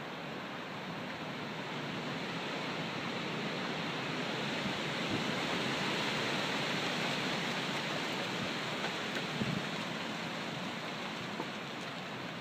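Storm wind rushing through trees, one gust swelling to its loudest about halfway through, then easing off.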